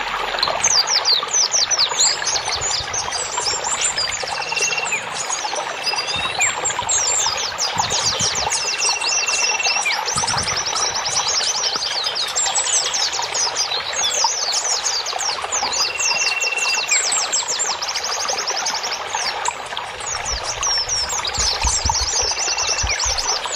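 Running water trickling steadily, with small birds chirping over it in quick runs of high, falling notes and now and then a short held whistle.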